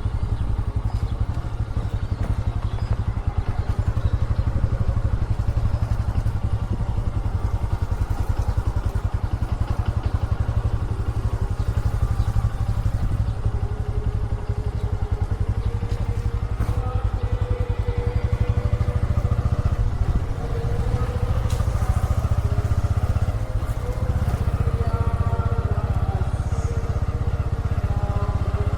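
Motorcycle engine running steadily while riding, with its pitch wavering somewhat in the second half.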